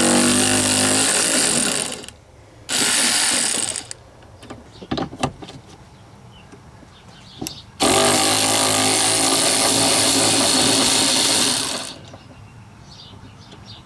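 A power tool runs in three bursts, about two seconds, one second and four seconds long, spinning off the thread-locked 13 mm nut on a wiper arm. A few light clicks come between the second and third bursts.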